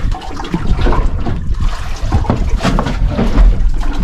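Water lapping and splashing against a small boat's hull, with wind rumbling on the microphone.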